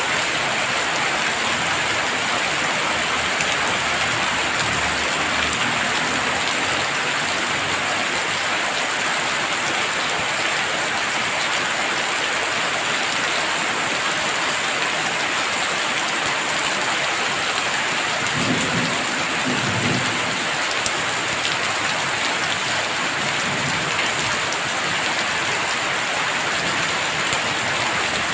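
Heavy rain falling steadily in a dense hiss. A low rumble of thunder comes through about two-thirds of the way in, with a fainter one earlier.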